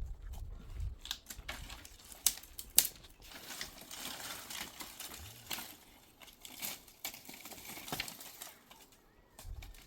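Handling noises: a run of small clicks and knocks, with two sharp knocks about two and a half seconds in, followed by several seconds of rustling and scraping.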